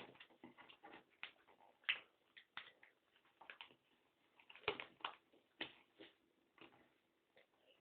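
Faint, irregular rustles and taps of a sheet of paper being handled, the loudest about two seconds in and near the middle.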